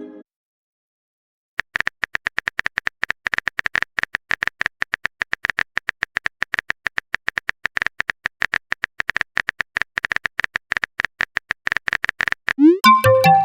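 Rapid keyboard-typing clicks, a typing sound effect, running for about eleven seconds, then a short rising message chime near the end.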